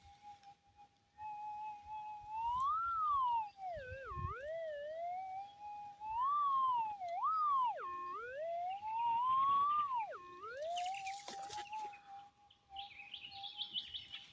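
Gold prospecting metal detector holding a steady threshold hum, then its target tone swooping up and down in pitch several times as the coil is swept back and forth over a small gold nugget in the ground.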